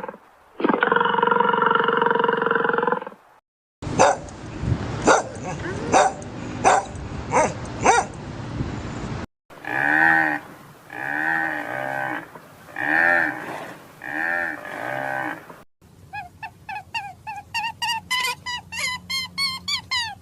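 A series of different animal calls cut one after another: a cow's long moo that ends about three seconds in, then about a dozen harsh, noisy calls, then about six pitched calls roughly a second apart, then fast, high, rapidly repeated chirps near the end.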